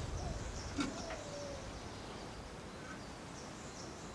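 Small birds chirping and calling faintly over quiet outdoor background noise, with a single light click just under a second in.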